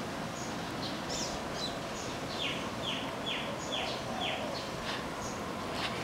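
Wild birds calling: scattered short high chirps, and about two to four seconds in a quick run of five or six downward-slurred notes, over a steady outdoor hiss.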